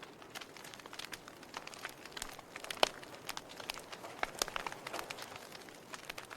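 Wood fire burning in a fireplace: steady soft hiss with irregular crackles and pops, the loudest a single sharp pop near the middle.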